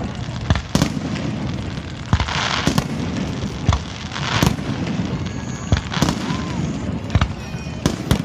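Fireworks display: aerial shells bursting in a string of about ten sharp bangs at uneven intervals, with a hissing crackle about two seconds in.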